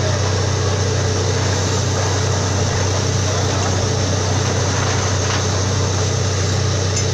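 Borewell drilling rig running: a steady, loud engine drone with a constant noise over it and no change in pace.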